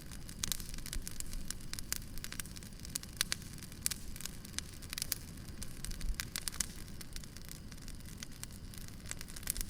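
Wood fire crackling: irregular sharp pops and snaps, several a second, over a low steady rumble of burning logs.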